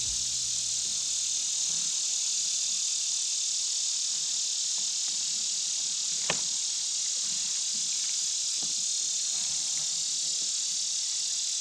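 Steady, high-pitched chorus of summer insects droning without a break, with a single sharp click about halfway through.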